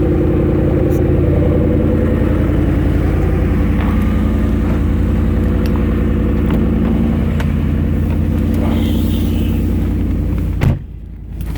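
2017 Dodge Ram 1500's 5.7 Hemi V8 idling steadily while warming up after a cold start in freezing weather. Near the end there is a single thump and the sound briefly turns muffled and quieter.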